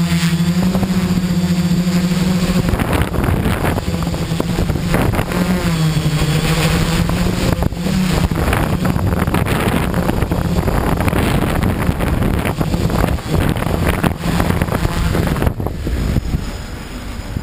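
XAircraft X650 V4 quadcopter's electric motors and propellers humming steadily, the pitch shifting up and down at times, with gusty wind buffeting the microphone. The sound falls off near the end.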